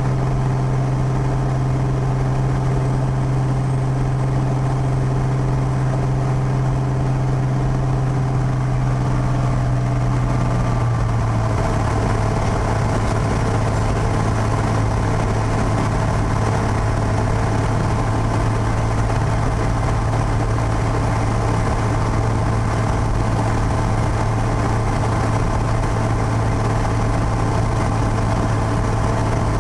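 Piper PA-32's six-cylinder Lycoming piston engine and propeller running steadily. About eleven seconds in the note changes: the low hum drops a little in pitch and the sound becomes fuller, a change in power setting.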